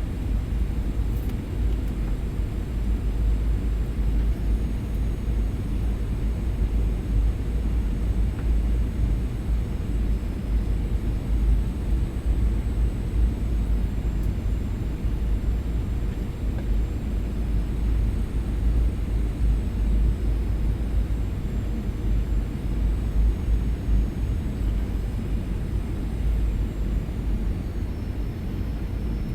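Steady low rumble of cabin noise inside a Boeing 737-800 under way, with engine and airflow noise and no distinct events.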